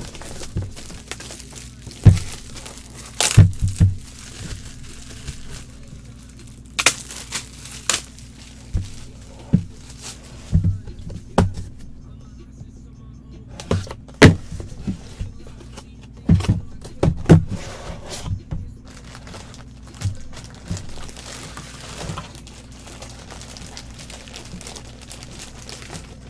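Handling noise from items being moved about: irregular knocks, thumps and rustling, in clusters with gaps, over a steady low hum.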